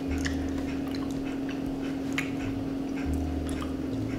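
Wet mouth sounds of a person chewing a soft, tofu-textured piece of food, with scattered small clicks and squishes. A steady low hum runs under it.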